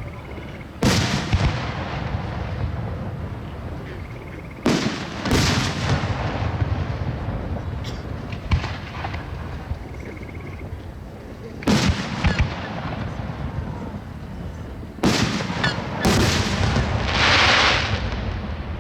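Fireworks show: aerial shells bursting one after another with sharp booms, some in close pairs, each trailing off in a rumbling echo. Near the end comes a longer hissing burst.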